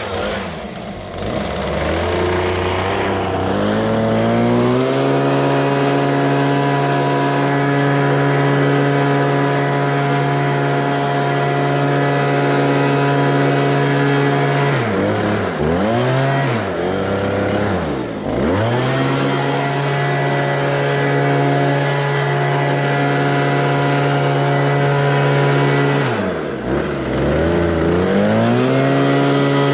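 Small petrol engine of lawn-care equipment run at high, steady revs. It winds up over the first few seconds. It drops sharply in speed and climbs back three times: twice in quick succession around the middle and once near the end.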